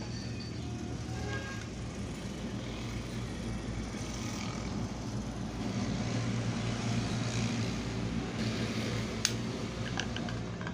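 Vehicle engine idling steadily, with a few short sharp clicks near the end.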